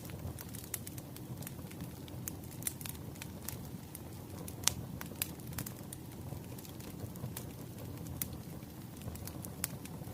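Firewood burning: a steady low rumble with irregular sharp crackles and pops, one louder pop about halfway through.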